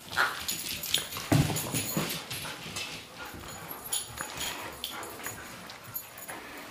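A dog whimpering, among scattered short knocks and scuffles, with a louder thud about a second and a half in.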